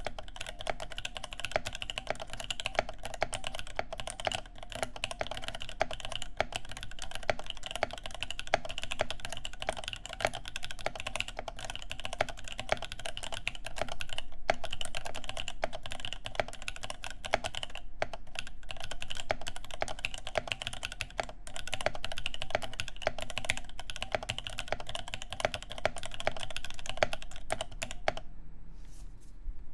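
Fast, continuous typing on a Cake60 mechanical keyboard with lubed NovelKeys Cream linear switches, an aluminium plate and GMK keycaps: a dense, even run of keystrokes that stops about a second and a half before the end.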